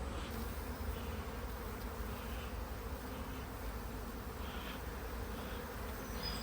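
Honeybees buzzing in a steady hum around an opened hive crowded with bees.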